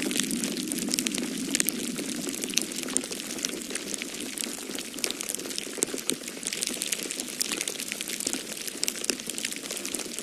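Wood fire crackling in a fireplace, with many small sharp pops, over a steady low rush of wind.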